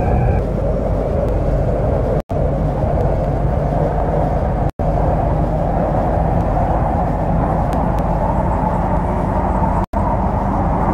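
MTR Kwun Tong line C-Train running, a steady rumble of wheels and motors heard from on board. The sound cuts out completely for an instant three times: at about two seconds, about five seconds, and near the end.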